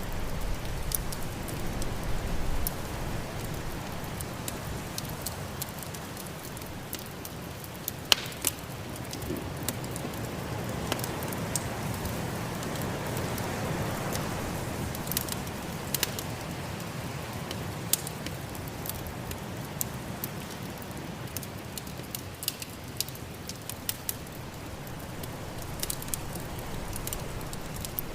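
Wood fire crackling in a fireplace, with sharp pops scattered throughout, the loudest about eight seconds in, over a steady rush of snowstorm wind that swells in the middle.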